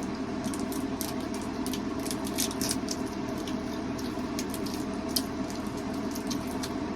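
Small scattered clicks and rustles, about a dozen over the stretch, from handling and eating ginger chews, over a steady room hum.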